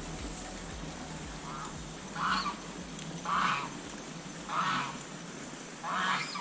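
A series of short, harsh honking calls repeating about once a second, five in all, the first one faint.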